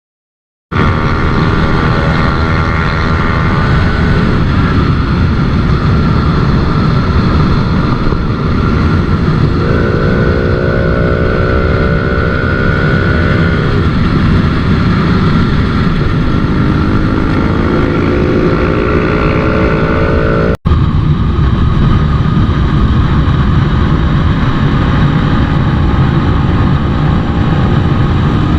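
Single-cylinder motorcycle engine running at speed on the move, its pitch climbing again and again as it accelerates through the gears, over a dense rush of wind and road noise. It starts after a moment of silence and briefly cuts out about twenty seconds in.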